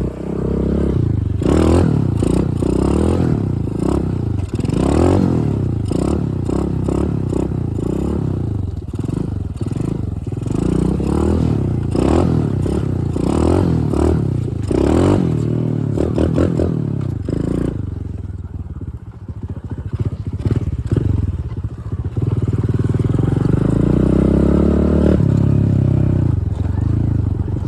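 Dirt bike engine being ridden hard, the revs rising and falling over and over as the throttle is worked. It eases off for a few seconds, then climbs in one long pull before dropping away near the end.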